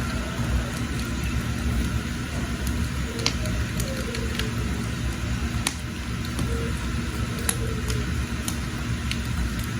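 Wood fire burning under a pot of water, a steady low rumble with scattered sharp crackles and pops.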